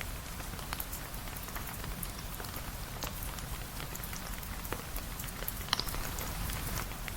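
Steady rain: an even hiss dotted with scattered sharp ticks of drops, one of them louder late on.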